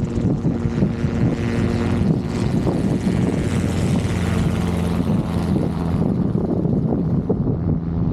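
Robinson R22 helicopter running: a steady drone of the piston engine and rotor, with hiss over it. The engine note drops slightly about four seconds in.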